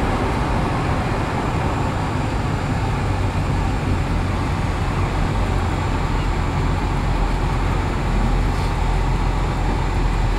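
1971 Cadillac Eldorado with its 500 cubic-inch V8 cruising: a steady low rumble of engine and road noise with tyre hiss and no change in speed.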